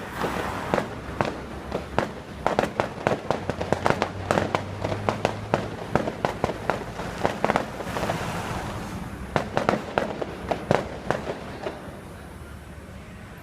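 Fireworks going off in quick, irregular bangs and crackles that stop about twelve seconds in, leaving a quieter background.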